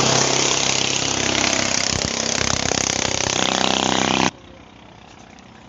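A small engine running steadily under loud rushing noise, with a stronger run of tones near the end, cutting off abruptly about four seconds in.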